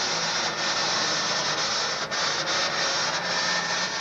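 Turbocharged diesel engine of a Super Farm pulling tractor running hard during a pull, heard as a steady, hiss-like noise with a faint low hum under it.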